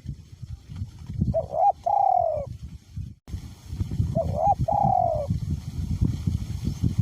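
Spotted dove cooing twice, each call a short note followed by a longer, arched note, over a low rumble of wind on the microphone.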